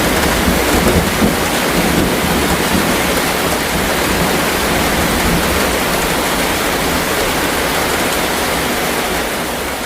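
Heavy rain pouring steadily, as in a thunderstorm, beginning to fade away near the end.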